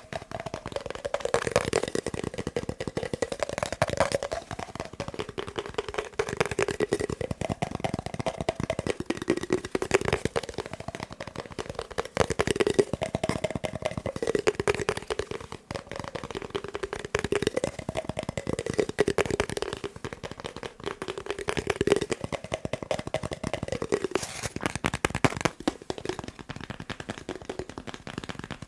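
Fast fingertip tapping on a paper roll: a dense, unbroken run of quick taps with a hollow tone that moves up and down in pitch every second or two as the taps shift along the roll.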